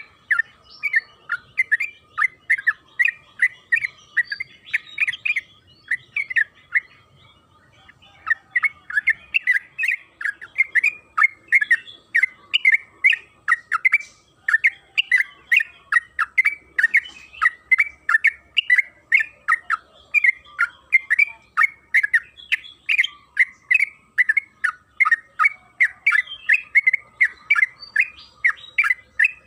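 Sooty-headed bulbul (trucukan) singing a long, fast run of short repeated notes, about three to four a second, with a brief break about seven seconds in.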